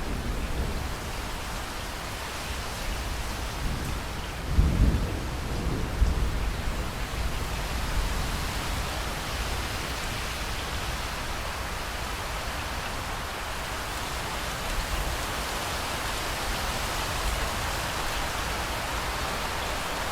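Steady rain falling, with a low rumble of thunder starting about four and a half seconds in and rolling on for a couple of seconds.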